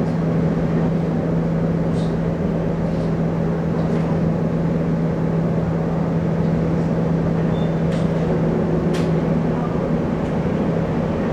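Running sound inside a Taiwan Railways electric commuter train carriage: a steady hum over continuous rumbling, with a few short sharp clicks now and then.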